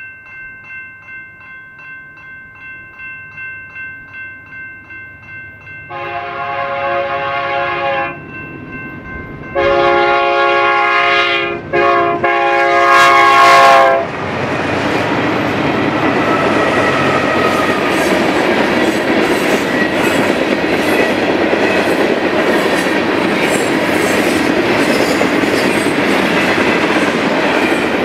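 Diesel freight locomotive air horn sounding the long, long, short, long grade-crossing signal, after a few seconds of ringing that pulses about twice a second. The BNSF manifest freight then rolls past close by, with its locomotives running and its freight cars clattering over the rail joints.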